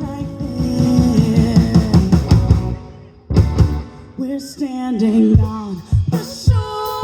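Live rock band playing with drums, guitar and singing. The full band drops away about three seconds in, leaving a sung line over sparser accompaniment.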